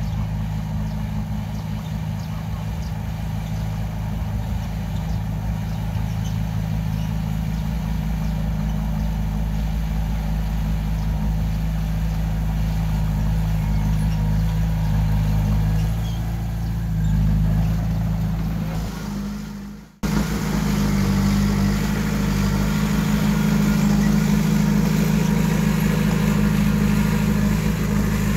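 Heavy diesel earthmoving machinery running steadily with a low engine hum. Near twenty seconds in the sound fades and cuts out for an instant, then comes back louder and steady.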